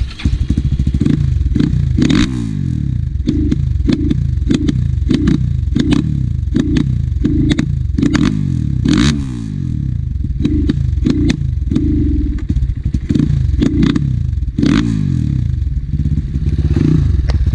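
Enduro motorcycle engine blipped over and over, its pitch rising and falling one to two times a second, with clattering clicks.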